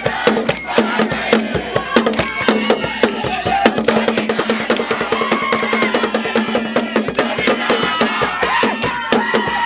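Fast, dense drumming with voices singing or chanting along over it.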